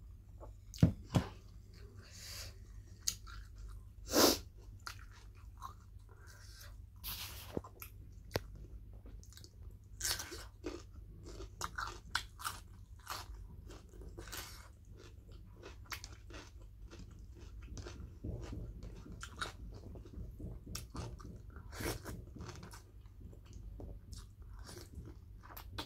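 Close-up chewing and biting of food, with crunchy bites and irregular mouth clicks. A few louder sharp hits come about a second in and again around four seconds.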